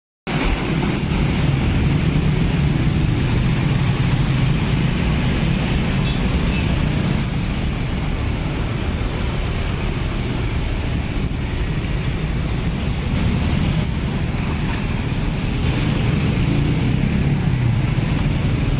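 Steady rumble of road traffic with wind noise on the microphone.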